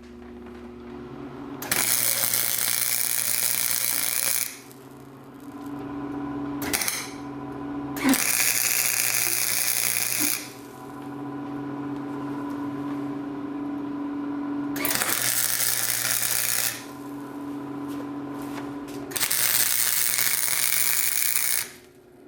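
Wire-feed welder laying short welds on steel exhaust pipe: four crackling bursts of about two to three seconds each and one brief one, with a steady hum between them.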